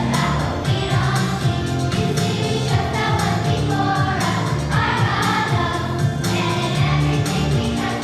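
Music: a group of voices singing a song with instrumental accompaniment and a steady beat.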